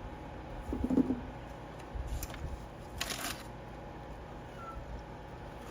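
A pet's short, low vocal sound about a second in, followed by a brief rustle near the middle.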